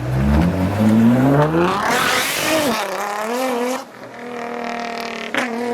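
A car launching hard from the meet on a wet surface. The engine revs climb steeply for about two seconds, then the tyres spin and squeal without traction, and the engine settles to a lower, steadier note as the car pulls away.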